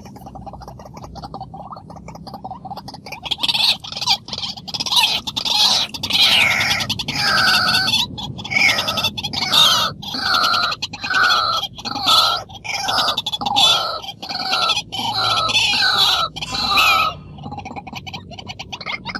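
A bird calling loudly in a fast, harsh run of repeated notes mixed with sharp clicks. The calling starts about three seconds in and stops about two seconds before the end.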